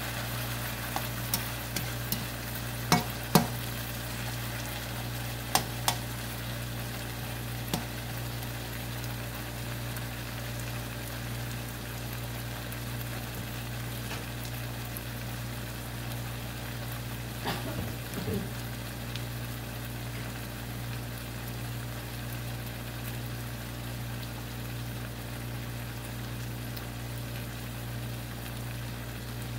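Long beans and pork belly sizzling steadily in a nonstick wok, the stir-fry cooked and the burner just switched off. Several sharp clicks of the plastic spatula against the pan come in the first few seconds and again around eighteen seconds in, over a steady low hum.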